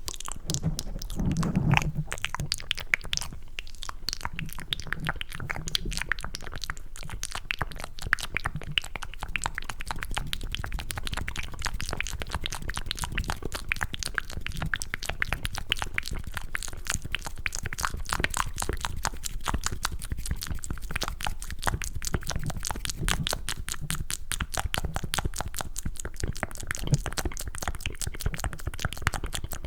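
Close-miked ASMR mouth sounds: rapid wet clicks and smacks of tongue and lips with the hands cupped around the mouth, imitating chewing mac and cheese. The clicks run continuously, many per second.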